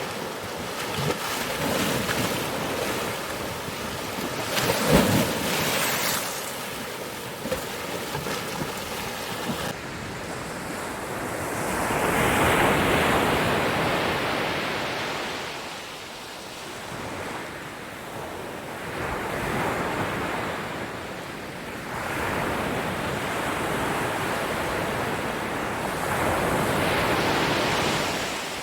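Ocean surf: waves breaking and washing up a shore, a crashing, fizzing stretch first with one loud surge, then slow swells that build and fade about every seven seconds.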